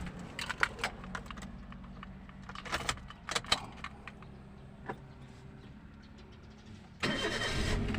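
Scattered small clicks and light knocks in several short clusters over a low steady hum, then a louder steady noise starting about seven seconds in.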